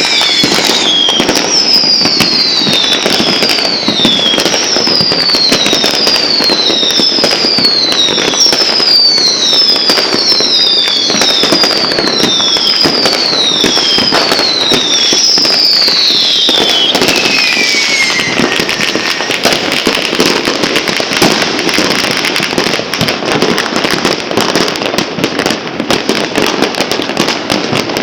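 New Year fireworks and firecrackers going off continuously in dense crackling bangs. For the first two-thirds a string of falling whistles repeats about once a second, then they stop and a steady hiss of crackle remains.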